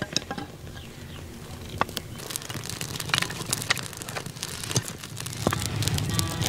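Irregular crackling and snapping of dry twigs and forest litter, growing denser and busier over the last few seconds.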